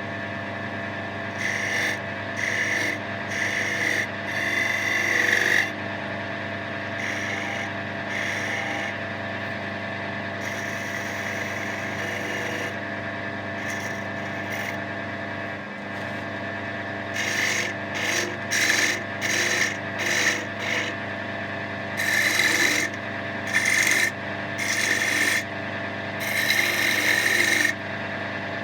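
Wood lathe running with a steady hum while a turning tool is worked against the spinning oak blank in repeated short scraping passes, most of them in the first few seconds and in the last third.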